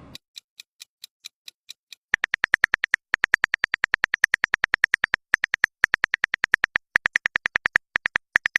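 Rapid, evenly spaced electronic blips, about ten a second, each a short beep near one pitch, preceded by a couple of seconds of sparse faint ticks, like a text-typing sound effect.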